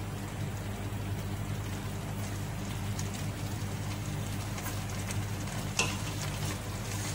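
Chicken and baby okra in tomato sauce sizzling in a stainless steel pot, stirred with a wooden spoon, with a few light knocks of the spoon against the pot near the end. A low steady hum runs underneath.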